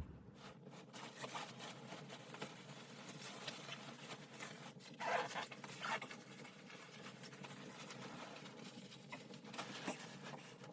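A run of irregular rustling and scraping handling noises, loudest about five seconds in, with another burst near the end.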